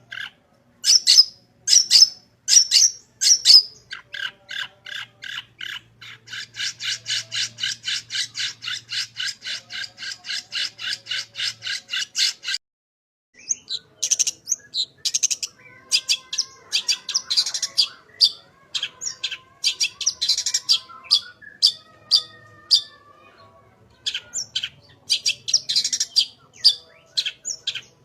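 A long-tailed shrike (cendet) singing a loud, varied song mixed with mimicked calls. It opens with a few sharp, high notes, then gives a long, fast run of raspy notes at about four or five a second. After a brief pause about halfway through, it goes on with quick chattering calls over softer warbled phrases.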